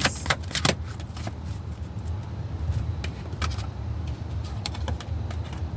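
Tarot cards being shuffled and drawn: scattered light clicks and flicks of card stock, over a steady low rumble.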